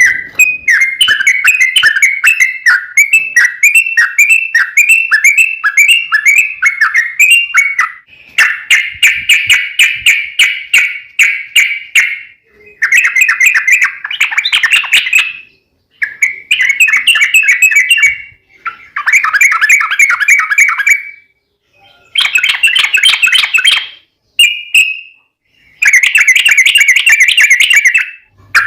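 Yellow-vented bulbul song in long rolling phrases: loud, quick bubbly notes around the same pitch. A continuous run lasts about the first eight seconds, then comes a string of shorter bursts of two to three seconds each, split by brief pauses.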